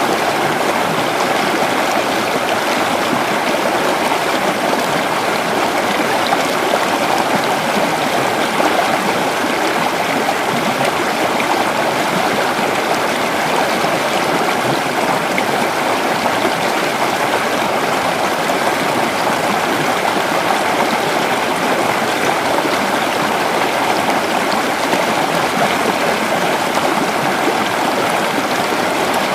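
Creek water flowing and gurgling over rocks, a steady, even rush.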